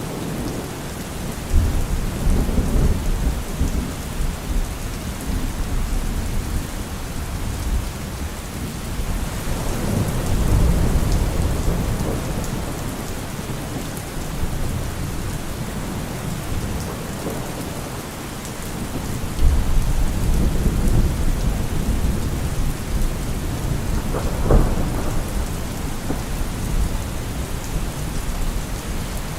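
Steady rain falling, with rolling thunder: deep rumbles swell up several times, beginning about 1.5, 10 and 19.5 seconds in, and a sharper thunderclap comes about three quarters of the way through.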